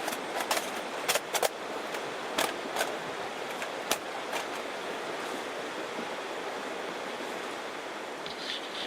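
Steady wash of surf, with a few sharp clicks and snaps in the first four seconds.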